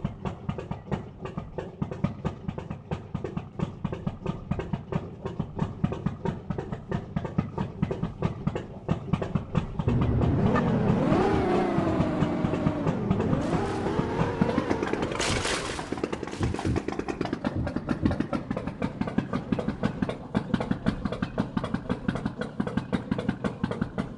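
Music with a fast, steady beat. About ten seconds in, a vehicle engine comes up over it for several seconds, its pitch rising and falling as it revs or drives past.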